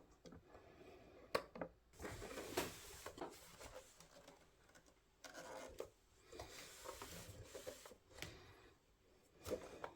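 Faint rubbing and scraping of hands working on small boombox parts, broken by a few sharp clicks.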